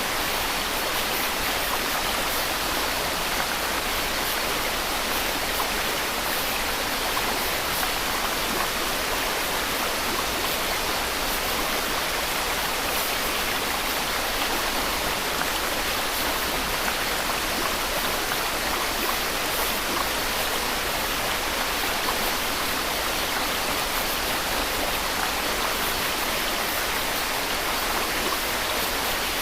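Steady white noise: an even, unbroken hiss that never changes in level.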